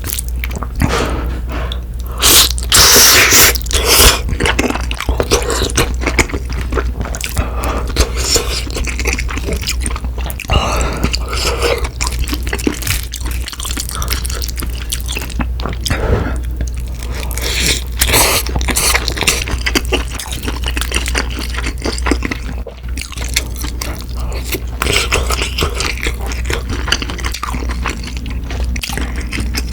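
Close-miked eating of cream tteokbokki and fried snacks: chewing and biting with crunching and wet mouth sounds, louder about two to four seconds in.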